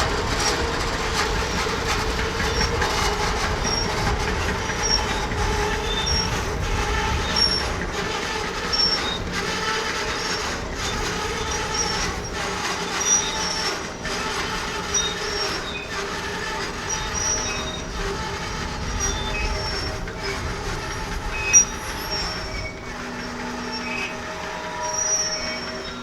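Intermodal freight train's cars rolling past slowly, with steady rumbling and short, high-pitched wheel squeals coming and going, and regular brief dips in the sound.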